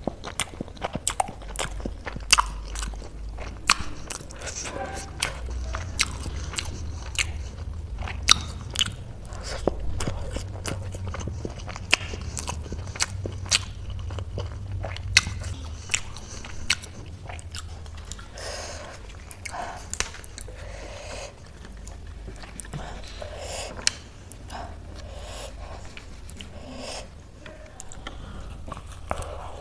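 Close-up chewing and wet mouth sounds of someone eating a steamed momo dumpling, with many sharp clicks and smacks. Near the end comes a bite into a crisp lettuce-leaf wrap of spicy noodle chaat.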